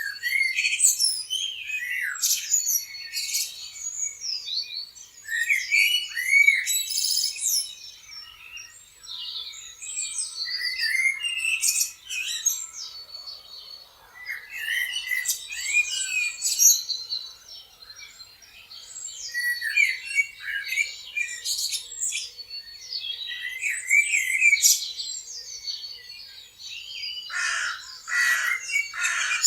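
Several birds chirping and singing at once, with many short, overlapping calls and pitch sweeps, and a louder burst of calls near the end.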